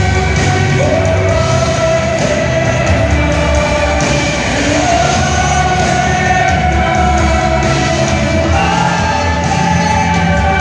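Live worship band playing, with a lead singer holding long sung notes that step up in pitch about a second in, around four seconds in and near the end, over a steady bass and drum backing.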